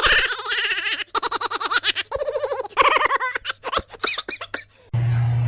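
A person giggling in quick, high-pitched laughs. Near the end the sound cuts to a steady low hum.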